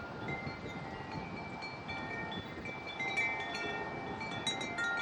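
Wind chimes ringing in strong gusty wind: many clear tones struck irregularly and overlapping, over a steady rush of wind on the microphone.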